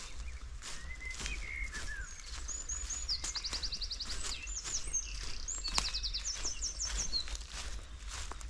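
Footsteps on the forest floor while small songbirds call: a few short chirps, then rapid high trills of quick repeated notes through the middle.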